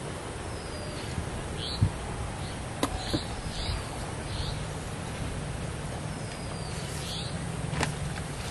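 Outdoor field ambience: birds giving short chirping calls about five times over a steady hiss, with a low hum in the second half and a few sharp clicks and thumps.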